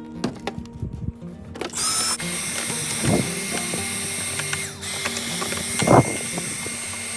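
Vacuum cleaner switched on about two seconds in: its motor spins up with a rising whine, then runs steadily with a loud rushing of air, clearing dirt from the air filter housing.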